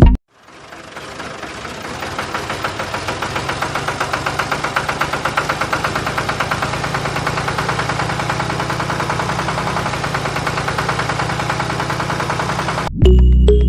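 An engine running with a rapid, even knocking beat. It fades in over the first couple of seconds, holds steady, and cuts off abruptly near the end.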